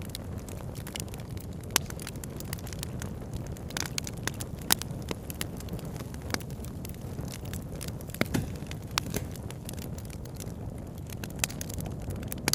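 Campfire crackling, with frequent sharp irregular pops of burning wood over a steady low rush of flowing river water.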